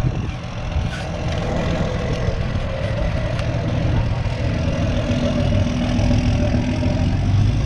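A car engine idling steadily with a low rumble.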